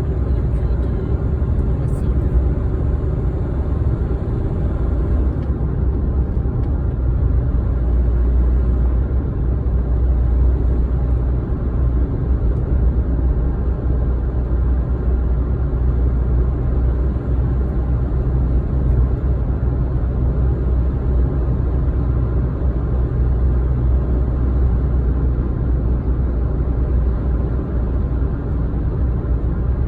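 A car driving steadily: a deep, even rumble of road and engine noise that hardly changes throughout.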